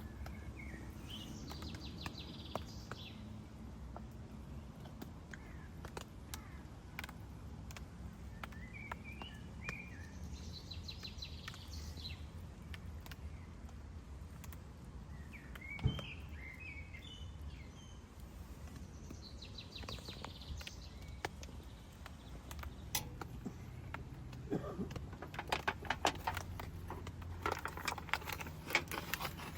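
A songbird singing short warbled phrases, three of them spaced several seconds apart, over a steady low outdoor rumble. Near the end comes a run of quick sharp clicks and crackles.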